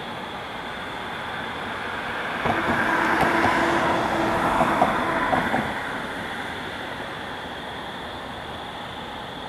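NJ Transit passenger train going by. It swells to a peak a few seconds in, with a steady hum and a handful of sharp wheel clicks, then fades away.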